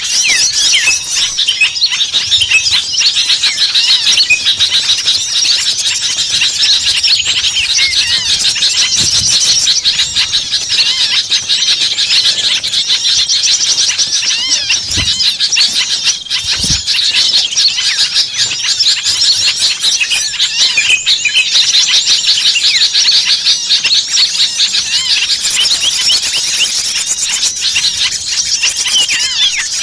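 Bird-lure recording of many small birds calling at once: a dense, continuous chorus of rapid high-pitched chirps, squeaks and trills, the noisy mixed chatter used to draw small birds in.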